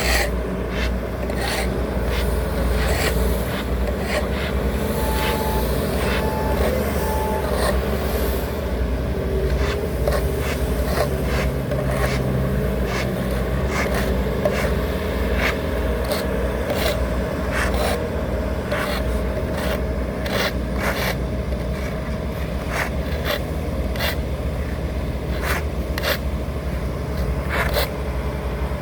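Heavy diesel road-construction machinery working asphalt, running steadily with constant scraping and clattering. A reversing alarm beeps briefly about five to seven seconds in.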